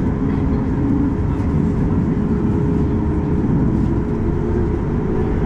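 Steady cabin rumble of a Boeing 737 MAX 8-200 with its CFM LEAP-1B engines running at low power, heard from inside the passenger cabin, with a steady hum through it.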